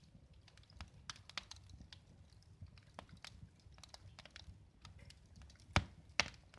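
Wood fire crackling in a fireplace: faint, irregular pops and ticks, with two sharper pops near the end.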